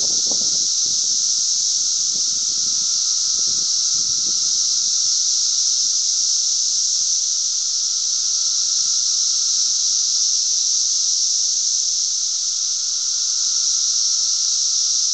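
A dense chorus of periodical cicadas (17-year Brood XIII) droning without a break: a loud, steady high-pitched hiss with a fainter steady lower tone beneath it.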